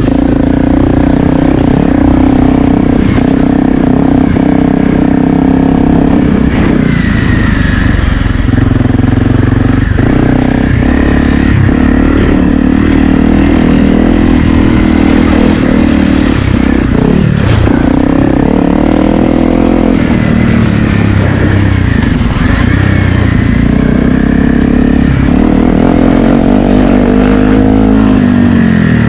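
Honda CRF250L's 250 cc single-cylinder four-stroke engine being ridden hard over a dirt track, its revs rising and falling with the throttle and dropping away near the end.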